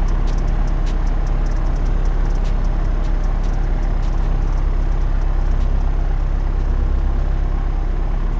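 Steady drone of a Cessna 172RG Cutlass's four-cylinder piston engine and propeller, heard inside the cabin, with scattered faint clicks.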